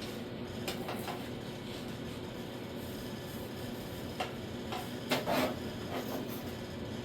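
Metal workshop sounds over a steady hum: a few light clinks and knocks, then a louder, short rasping burst about five seconds in.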